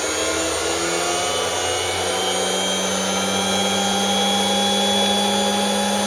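Cessna 208B Caravan's PT6A turboprop being spun up by its starter: a whine of several tones climbing in pitch as the gas generator accelerates, the low tone levelling off about two seconds in while the higher tones keep slowly rising. This is the starter motoring stage of the start, before fuel and light-off.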